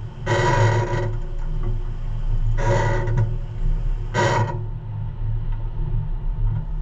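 Tractor-trailer's diesel engine running with a steady low rumble while the truck backs up. Three short, louder higher-pitched bursts break over it: one near the start, one about three seconds in, and one just past four seconds.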